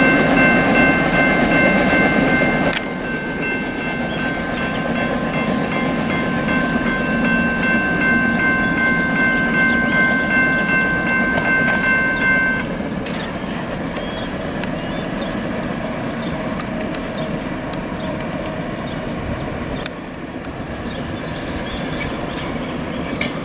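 BNSF freight train running away from the grade crossing, its wheel and rail noise dropping in level about three seconds in and continuing more quietly. Over it the crossing's warning bell rings steadily and stops about halfway through.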